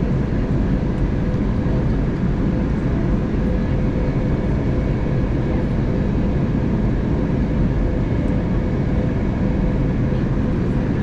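Steady cabin noise inside an Airbus A320neo in descent: a constant low rumble of engines and airflow, with a thin steady hum running through it.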